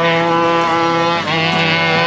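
Rovan RF5 1/5-scale rally car's two-stroke engine revving high, its pitch dipping briefly and climbing again a little over a second in.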